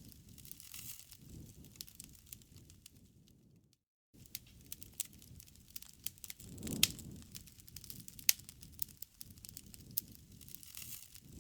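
Crackling wood fire: irregular sharp pops and snaps over a low rumble of the burning. The sound cuts out completely for a moment about four seconds in.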